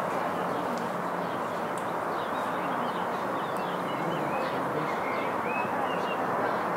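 Small birds chirping and calling in quick short notes over a steady background hiss.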